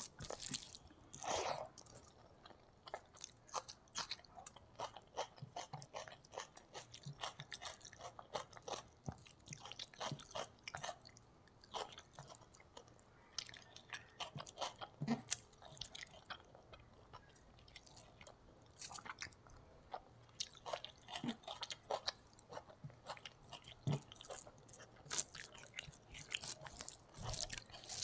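Close-miked chewing of a mouthful of rice and fish curry: a steady run of short, irregular wet clicks and smacks from the mouth, along with the squish of rice and curry being mixed by hand.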